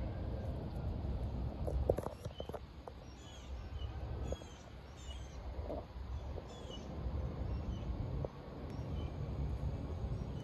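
Small birds chirping: a series of short, high, downward-sliding notes repeating every half second or so. Underneath runs a low steady rumble, with a few sharp snaps about two seconds in.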